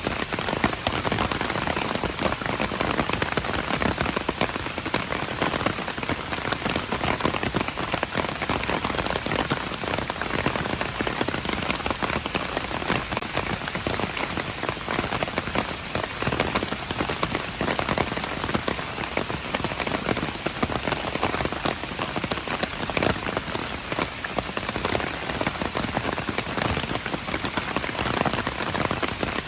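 Steady rain falling on hard surfaces: a dense, even patter of many drops.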